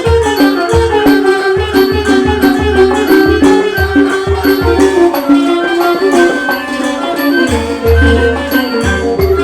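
Thai classical ensemble playing a hom rong overture: melodic instruments carry a running tune over low drum strokes about twice a second and a steady high ticking beat.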